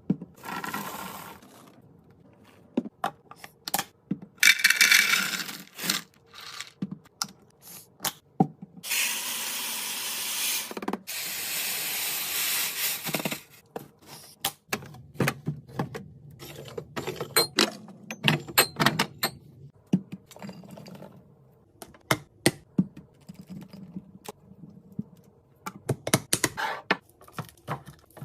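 Containers and packaged food being handled while restocking a fridge and pantry: a run of sharp clicks, taps and knocks as items are set down and opened, with two longer stretches of hissing noise, one about four seconds in and a louder one from about nine to thirteen seconds.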